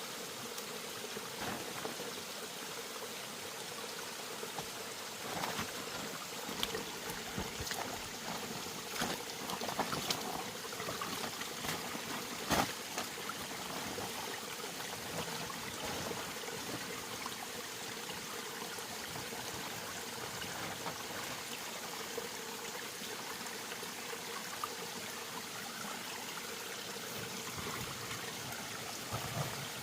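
Running water, a steady trickling flow, with scattered small clicks and knocks and one sharper knock about halfway through.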